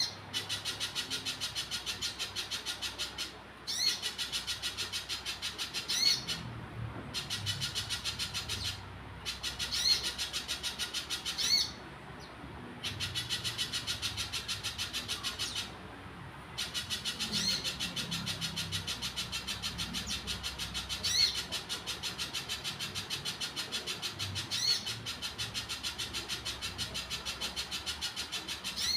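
Spiderhunter singing: a fast, steady run of high chips, about six a second, broken by short pauses, with a louder rising note every few seconds.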